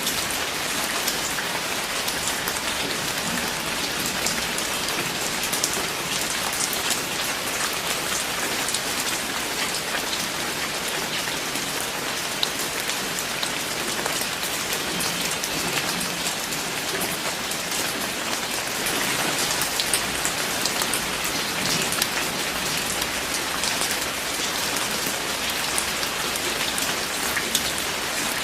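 Steady rain falling on a surface, a continuous hiss dense with fine individual drop ticks.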